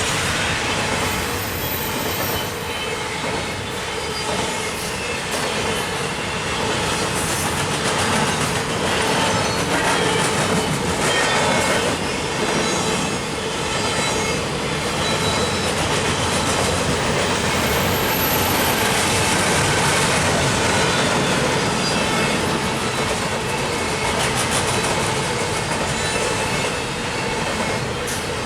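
CN intermodal double-stack freight train rolling past, a steady rumble of railcars with wheels clicking over the rail joints.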